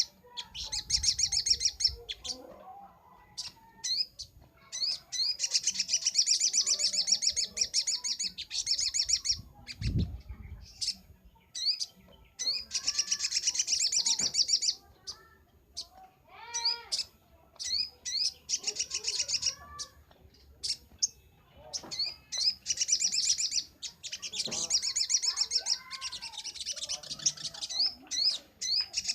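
Sogok ontong (sogon), a spiderhunter, singing: fast, high trills lasting a second or two, repeated with short sharp chip notes between them, and some lower rising-and-falling whistles in the middle. A single low thump comes about ten seconds in.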